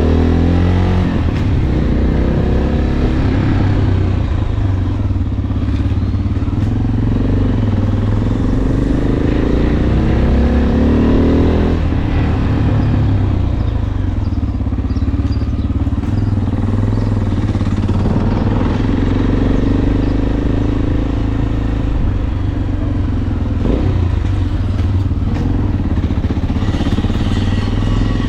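Motorcycle engine running under way, its pitch climbing and falling, with a sudden drop about twelve seconds in, over a steady low rumble.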